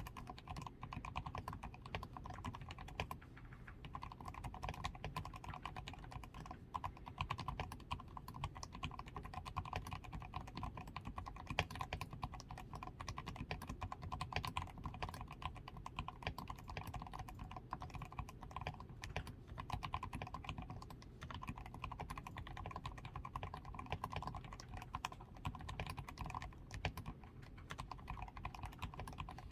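Continuous typing on a DAREU A87 Pro mechanical keyboard, fully lubed with Krytox 105, with a tape-modded PCB, Poron foam added around the switches, lubed stabilisers and XDA keycaps. The keystrokes come as a dense, fast stream of clicks, with a few short pauses.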